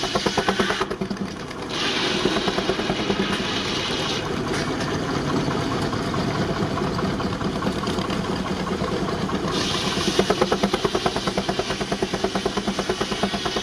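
19-65 Uniflow Baker steam traction engine running under load as it drives a sawmill, its exhaust beating in a fast, even rhythm. A brighter hiss rises over it about two seconds in and again from about nine and a half seconds.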